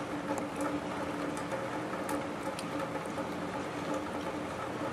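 A steady low hum over an even hiss, with a few faint ticks.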